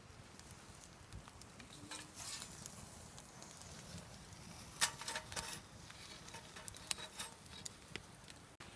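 Wood campfire crackling faintly, with scattered sharp pops and clicks over a low steady background.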